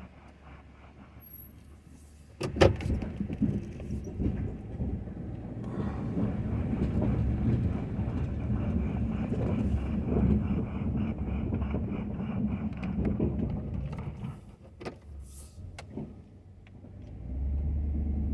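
Ford F-250 pickup working with a Western snow plow. A sharp knock comes about two and a half seconds in, then the truck's engine runs loud under load for about twelve seconds, drops off briefly near the end with a few clicks, and comes back as a steady low hum.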